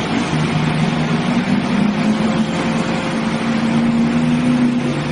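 Heavy vehicle engine running at a steady speed, a low drone that holds its pitch throughout, under a loud even rush of noise.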